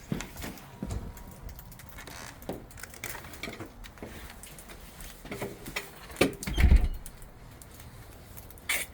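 Scattered knocks and clicks of things being handled, with a heavier thump about two-thirds of the way in.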